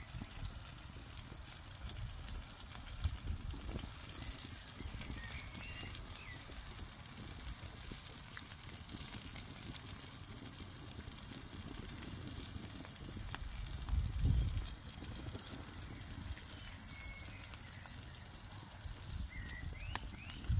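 Outdoor ambience of steadily trickling water, with a few short high chirps and scattered faint clicks. Low rumbles come and go, loudest about two-thirds of the way through.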